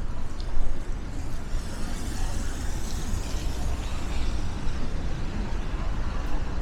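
City traffic noise with an uneven low rumble of wind buffeting the microphone; a vehicle swells past about two to four seconds in.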